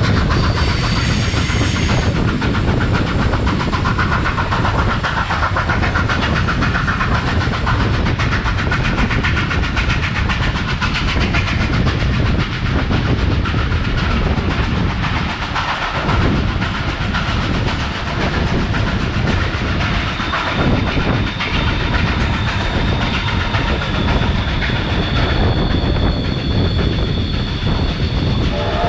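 A train hauled by steam locomotive 3801 running along the line, heard as a steady rumble of wheels on rails with clickety-clack over the rail joints. A thin high squeal joins in during the last third.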